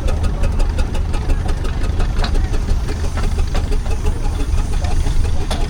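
Steam traction engines running as they move out of the arena: a steady low rumble with irregular knocks and clicks.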